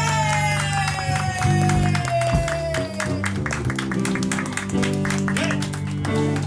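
A live band plays strummed guitar chords with a steady beat, while a long held note slides slowly down in pitch over the first three seconds.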